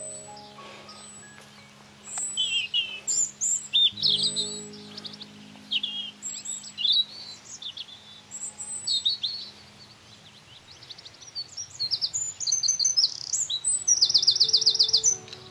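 Songbirds chirping and calling in several bursts, ending in a fast trill of quickly repeated notes near the end. Soft background music with held low notes plays underneath.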